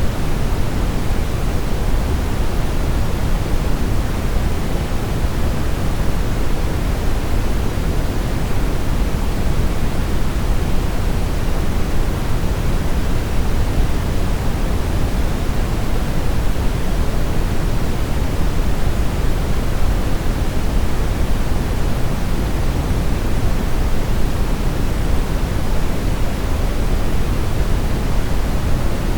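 Steady brown noise: an even, deep rushing hiss weighted toward the bass, unchanging throughout.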